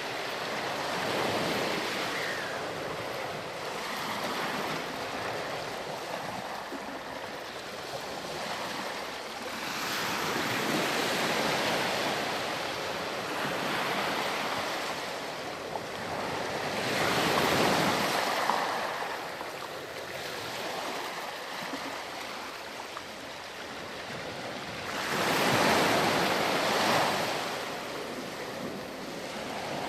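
Ocean waves breaking on a sandy beach and washing back, the surf swelling every seven or eight seconds over a steady wash, with the loudest surges near the middle and toward the end.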